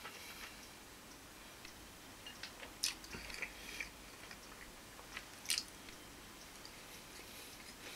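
A man chewing fried shumai over rice, with light clicks of chopsticks against the bowl; two sharper clicks stand out, about three and five and a half seconds in.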